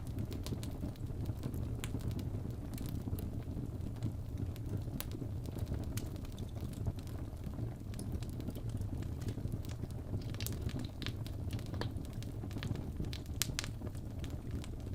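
Fire burning in a fireplace: a steady low rumble with scattered sharp crackles and pops, coming more thickly near the end.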